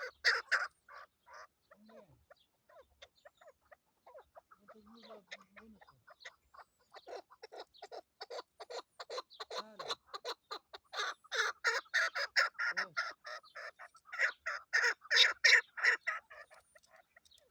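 Female chukar partridge calling: a long run of short clucking notes, about five a second, scattered at first and then building into louder, faster chatter in two spells near the end.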